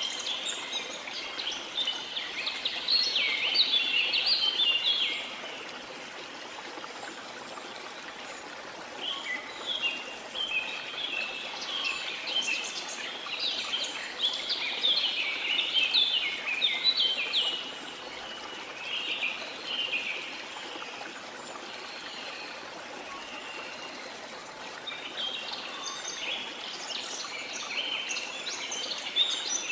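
Songbirds chirping in bouts of rapid short notes over a steady rush of running water. The bird song fades for a few seconds at a time and then starts up again.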